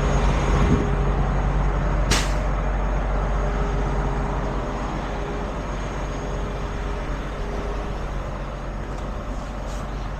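Heavy diesel truck engine running steadily, with one short burst of air hissing out about two seconds in, like an air brake or air valve release.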